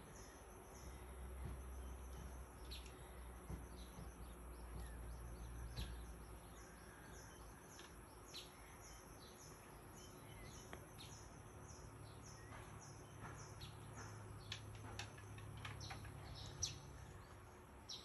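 Faint tropical forest ambience: short, high bird chirps repeated every half second or so, over a low steady hum.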